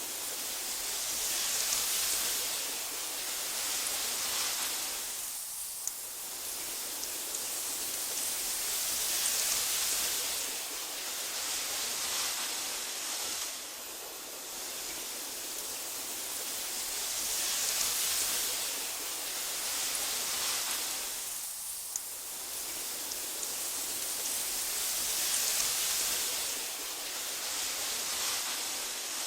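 Wind blowing through tall meadow grass: a steady rushing hiss that swells and eases in slow gusts about every eight seconds.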